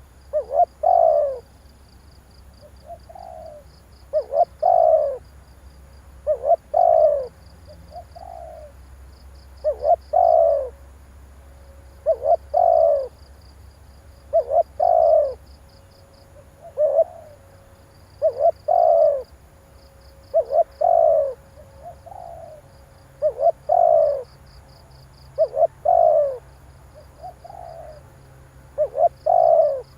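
Spotted dove cooing over and over: about a dozen phrases, one every two to three seconds, each a short soft note followed by a louder pair of falling coos.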